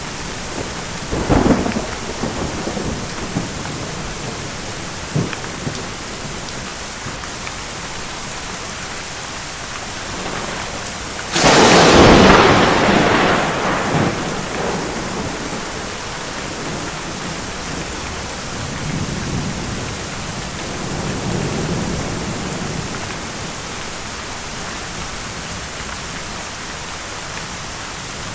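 Steady heavy rain with thunder. There is a sharp crack about a second and a half in, and a loud, close thunderclap about eleven seconds in that rolls away over a few seconds. Softer distant rumbles follow later.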